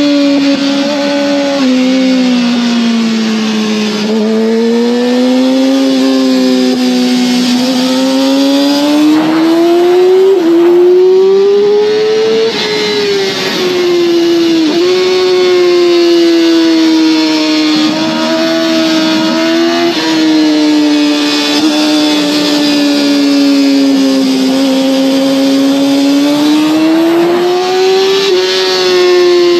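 Yamaha R6 inline-four sport bike engine and exhaust running under way, its pitch rising and falling slowly with a few sudden small drops.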